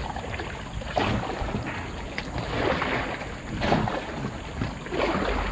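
Kayak paddle strokes swishing and splashing in the water, one about every second or so, over a low rumble of wind on the microphone.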